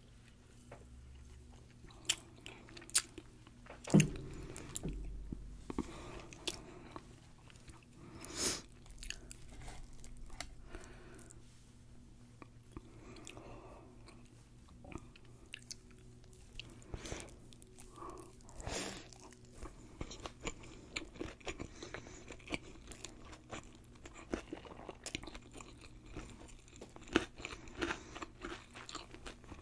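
Close-up crunching, biting and chewing of deep-fried, batter-coated sushi roll, with many small crackles of the crisp fried crust. A single sharp knock about four seconds in is the loudest sound.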